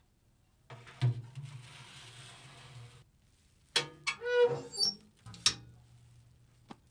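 A short animal call, under a second long, with a few sharp knocks around it.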